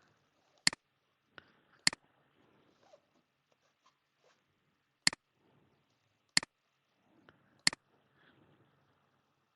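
Computer mouse button clicking five times at uneven intervals, each a sharp press-and-release click.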